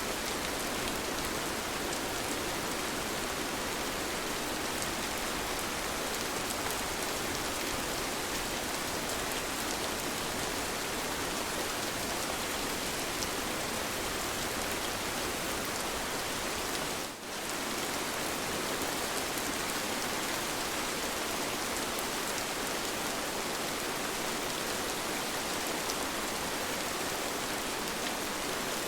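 Steady rain falling, an even, dense hiss of many drops. About seventeen seconds in, the sound dips briefly and then comes straight back.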